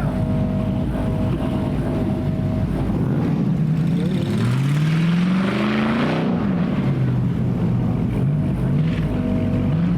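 A car engine idling, then revved once about four seconds in: its pitch rises for about two seconds and falls back to idle, with a smaller blip of revs near the end.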